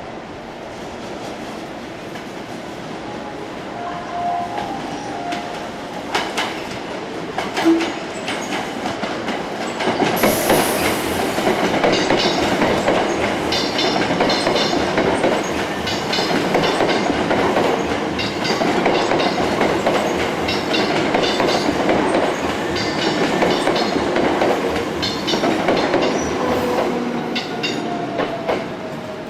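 A Hankyu electric train passing close by, its wheels clicking in a steady rhythm over the rail joints. The noise builds for the first several seconds, is loudest from about ten seconds in, and eases off near the end.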